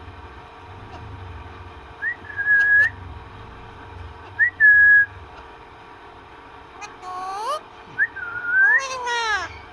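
Pet parrot whistling: two clear, steady whistles, each opening with a quick upward flick. These are followed by louder, rising and falling calls with a fuller, voice-like tone near the end.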